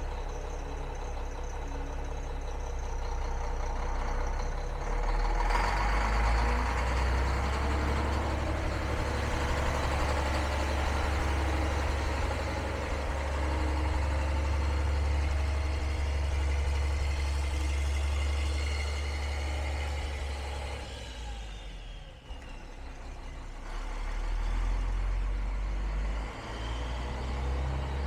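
2002 Mack CX613 Vision semi truck's diesel engine running. It grows louder about five seconds in and holds there, then drops away around twenty seconds in with a falling whine, before picking up again near the end.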